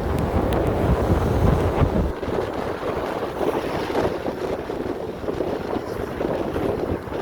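Strong wind with driving rain in a storm of straight-line winds. Heavy wind buffets the microphone for about the first two seconds, then the low rumble eases and a steady rush of wind and rain remains.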